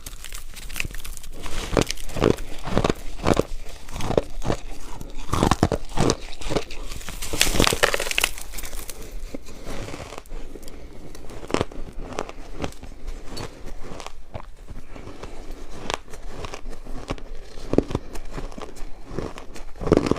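Ice being bitten and chewed close to the microphone: sharp crunching and cracking. The crunches come thick and fast in the first half, then fewer and more spaced out.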